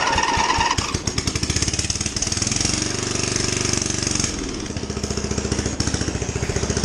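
12.5 hp Briggs and Stratton riding-mower engine running with its muffler cut off, the open exhaust popping in a rapid, choppy stream. About two seconds in it steadies into a smoother tone for a couple of seconds, then goes back to the choppy firing.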